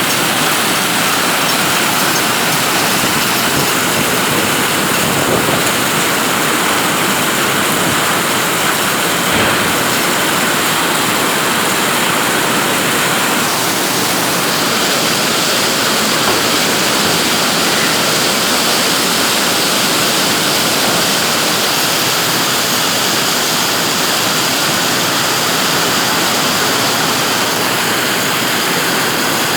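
Heavy rain falling steadily in a loud, even downpour.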